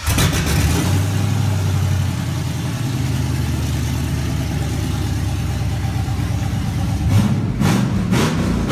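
A car engine running steadily at idle, with a few sharp revs near the end.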